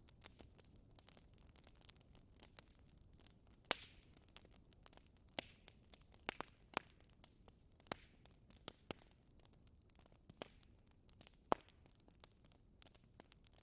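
Wood fire crackling in a fireplace: irregular sharp pops and snaps over a faint low hiss. The loudest pops come a little under four seconds in and again near the end.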